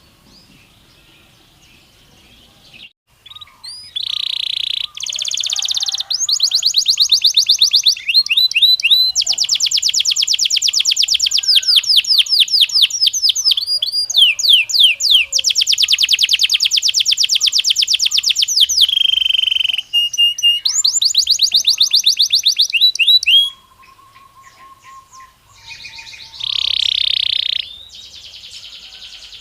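Belgian canary singing. The opening few seconds are quiet, then long, loud trills of rapidly repeated high notes follow, phrase after phrase, each at its own pace. Near the end the song is softer, with a short low whistle and a buzzy phrase.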